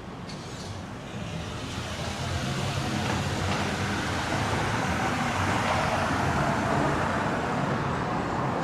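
City street traffic with a motor vehicle's engine and tyres growing louder about a second in as it draws close, then holding steady.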